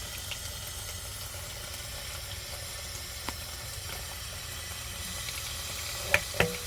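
Water running steadily from a tap, a continuous hiss, with two sharp knocks near the end.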